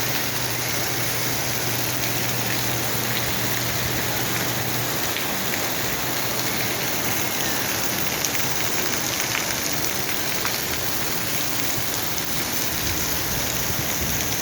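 Heavy rain falling steadily and pattering on surfaces, with scattered drop ticks. A low steady hum sits under it and stops about five seconds in.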